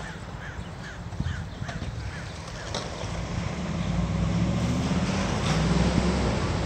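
A bird calling in a quick run of short, repeated rising-and-falling notes, about three a second, for the first second and a half. From about three seconds in, a low rumble builds and becomes the loudest sound.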